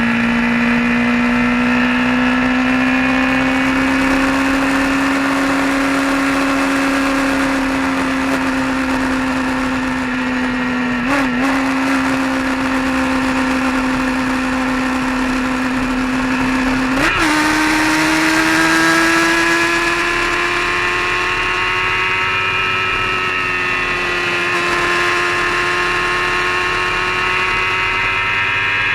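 Vehicle engine running steadily at road speed. Its pitch dips briefly twice, about eleven and seventeen seconds in, then slowly rises through the second half.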